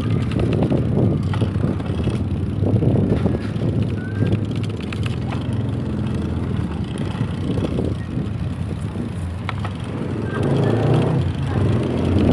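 Steady rumbling road and wind noise from riding a bicycle.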